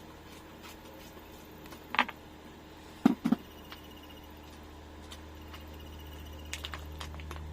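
Light handling noises from unwrapping a packet of beef: a short scrape about two seconds in, two soft knocks just after, and a few faint clicks near the end, over a low steady hum.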